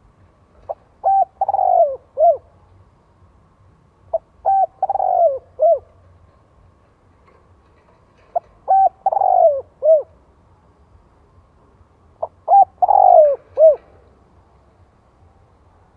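Spotted dove (chim cu gáy) singing its cooing song: four phrases about four seconds apart, each a few short coos, a longer falling coo and a short closing coo.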